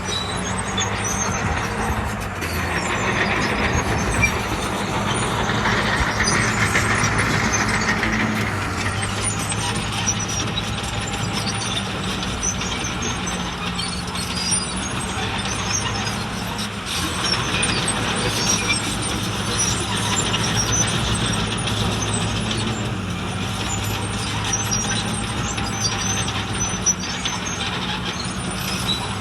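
Heavy diesel earthmoving machinery running with a steady low engine drone, overlaid by a harsher rushing, clattering noise that grows louder a couple of seconds in and again just past the middle.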